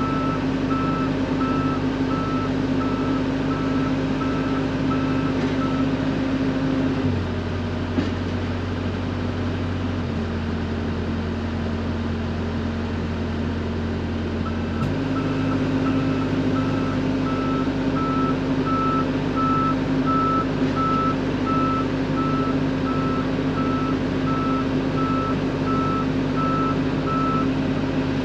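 Mini excavator's diesel engine running with its travel alarm beeping steadily, about two to three beeps a second. The beeping stops for several seconds in the middle while the engine note drops lower, then the engine comes back up and the beeping resumes.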